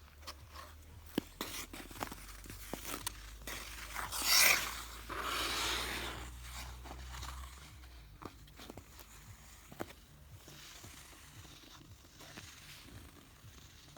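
Ice skate blades and footsteps scraping and clicking on pond ice, with a loud hissing scrape about four seconds in and a longer scrape just after it. A low rumble stops about eight seconds in.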